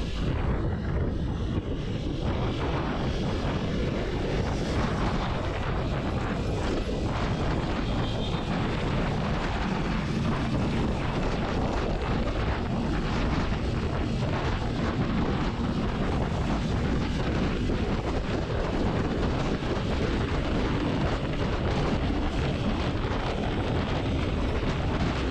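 Steady wind rush on the microphone of a motorcycle ridden at speed, with the Kawasaki Ninja 300's parallel-twin engine running underneath.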